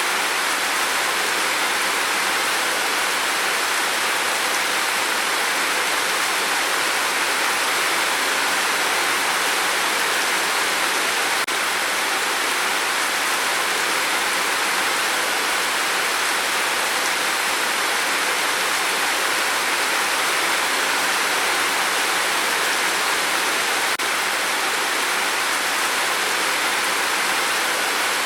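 Steady rain on a tin roof: an even, unbroken hiss of many drops with no let-up.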